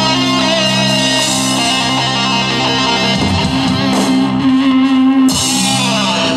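Live rock band playing an instrumental passage after the last sung line, with electric guitar holding sustained chords, near the end of the song.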